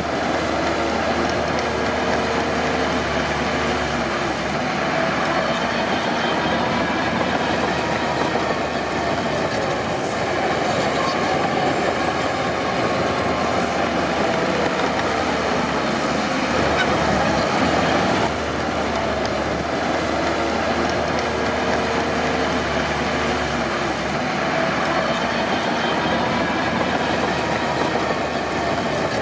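Crawler bulldozer at work: its diesel engine runs steadily while the steel tracks clank and squeal with a wavering pitch. The noise eases slightly about 18 seconds in.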